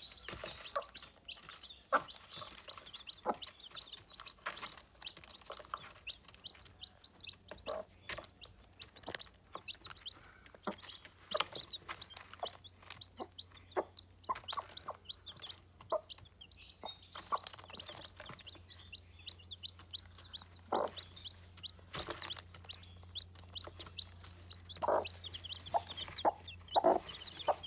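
Aseel chicks peeping: a dense run of rapid, short, high peeps, broken now and then by short, lower clucking calls.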